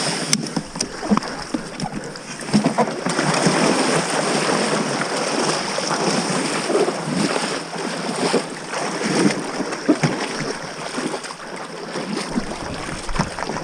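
Water splashing and sloshing around a small boat moving down a river, with scattered small knocks and steady wind noise on the microphone.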